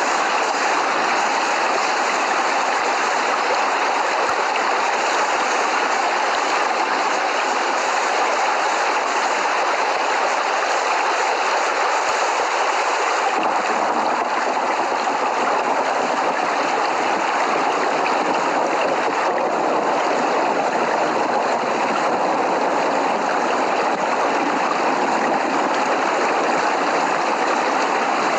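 Steady, heavy rainfall: a dense, even hiss with no thunder.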